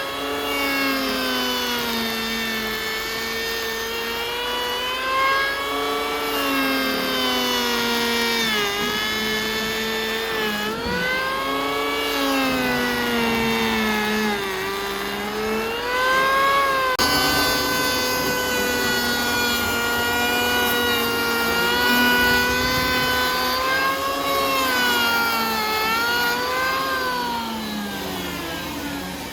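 Woodworking power tool motor running continuously, its pitch sagging and rising again several times, with an abrupt change in the sound about two-thirds of the way through.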